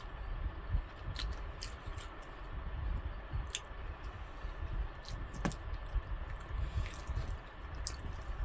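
Close-up chewing of fried chicken, with wet mouth smacks and irregular sharp clicks.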